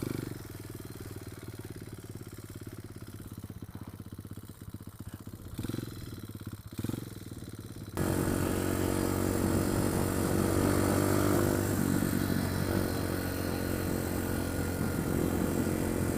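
Pit bike engine, first idling steadily with two short throttle blips, then suddenly louder and running under way with its pitch rising and falling.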